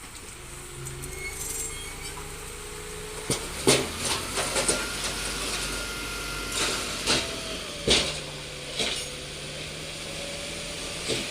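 Diesel earthmoving machinery running steadily, with a series of sharp metallic clanks and knocks scattered through it.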